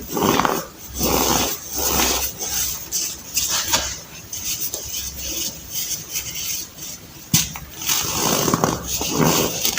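Reformed baking soda being crushed: a series of dry, squeaky crunches about a second apart, with finer crumbling in between and one sharp snap about seven seconds in.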